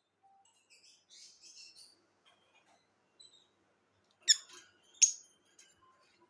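Pet parrots chirping and chattering quietly, then two loud, sharp calls less than a second apart a little past halfway.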